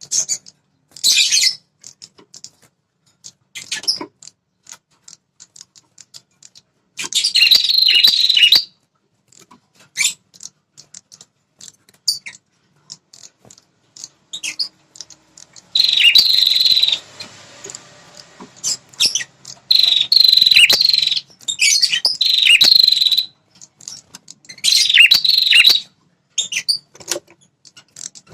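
Prenjak kepala merah, a small songbird, singing in repeated loud bursts of high, chattering song, each a second or two long, with scattered short sharp chips between. This is territorial song of the kind used as a lure call to provoke male prenjak into singing back.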